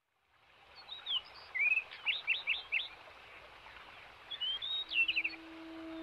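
Birdsong fading in over a soft hiss: short chirps and quick runs of falling notes, in two bouts. A low steady tone begins near the end.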